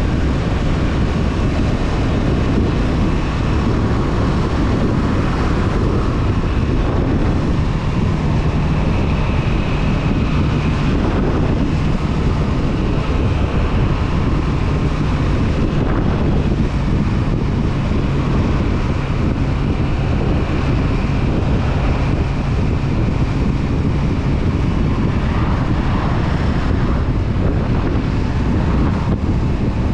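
Honda CB500F parallel-twin engine running at a steady cruise, its pitch holding even for most of the stretch, mixed with heavy wind noise on the camera's microphone.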